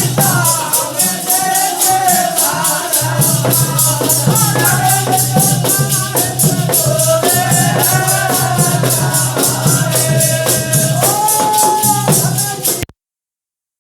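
Dehati Holi folk song: a wavering melody over a steady low drone and jingling percussion struck about four times a second. It cuts off suddenly into silence near the end.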